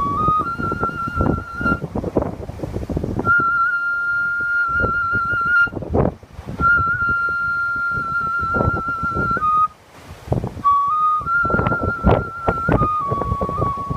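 Umebue (梅笛) flute playing a Gion festival-music (ohayashi) melody: long held notes that step between a few pitches, with quick fluttering ornaments and short breaks for breath. Strong typhoon wind buffets the microphone with gusty rumbling throughout.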